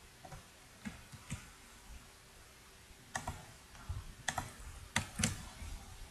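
Computer mouse and keyboard clicks: about a dozen short, irregular clicks, several in quick pairs, as a list is copied and pasted.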